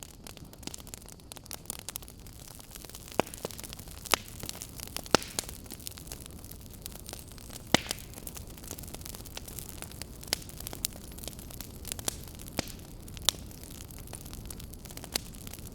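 Wood fire burning in a fireplace, crackling with sharp pops scattered irregularly over a steady low rumble.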